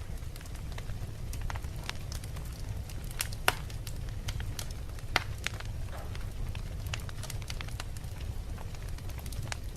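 Wood fire burning in a fireplace: logs crackling with irregular sharp pops over a steady low rumble of flames, with a couple of louder pops near the middle.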